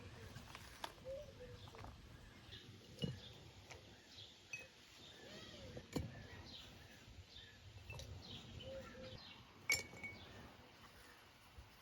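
A few sharp clinks, three standing out, the last about ten seconds in ringing briefly, over faint bird chirps.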